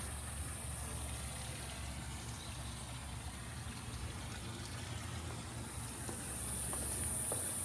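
Steady high-pitched insect chorus, louder from about six seconds in, over a low steady rumble.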